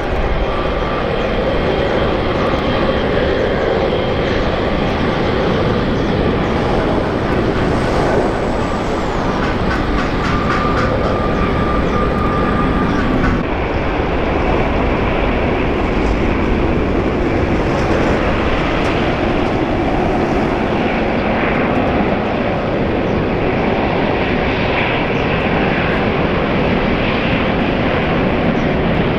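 Jet airliner engines, a loud steady roar with a thin high whine over it for the first half.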